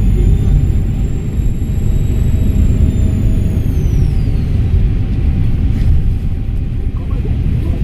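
Volvo B7RLE bus diesel engine running under a heavy low rumble, its turbocharger giving a high whistle that climbs slightly, then falls away and fades about four seconds in.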